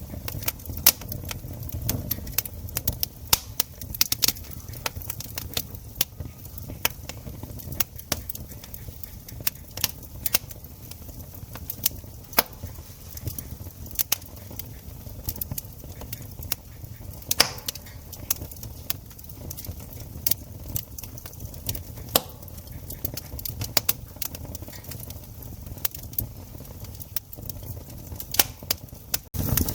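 Wood campfire crackling: many sharp, irregular pops and snaps over a low, steady rumble of burning.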